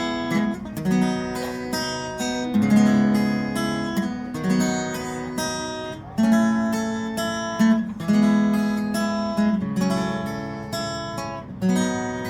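Acoustic guitar with a capo on the 4th fret, strumming chords as a song's introduction, each strum struck sharply and left to ring.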